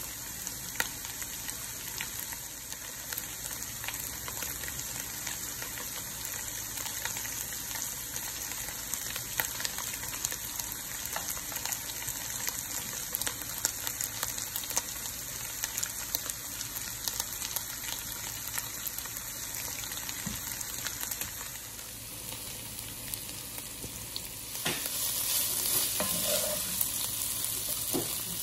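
Minced chicken sizzling and crackling as it fries in a pan, a steady hiss dotted with small pops. Near the end it gets louder as a wooden spatula stirs and turns the mince.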